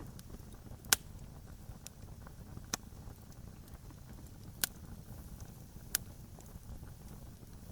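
Campfire crackling: sharp, separate wood pops every second or two over a low steady rumble of the burning fire, the loudest pop about a second in.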